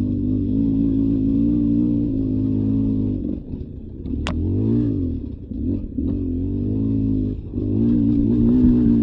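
Beta 300 RR two-stroke dirt bike engine running under steady throttle, then backing off a little past three seconds and revving up and down in short rises and falls before settling back to a steady pull near the end. A single sharp click sounds about four seconds in.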